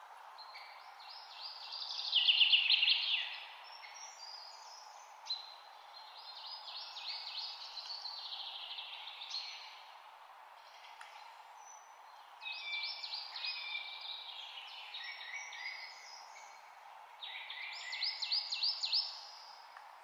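Songbirds singing in four phrases of quick chirps and trills, the loudest about two seconds in, over a steady hiss.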